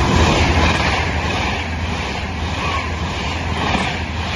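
Frecciargento high-speed electric train passing close by at speed: a loud, steady rush of train noise. It is loudest as the front goes by near the start and holds as the coaches stream past.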